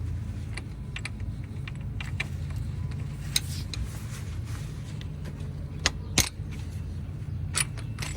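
Scattered sharp metallic clicks and clinks as tools and the loosened injector are handled, over a steady low hum.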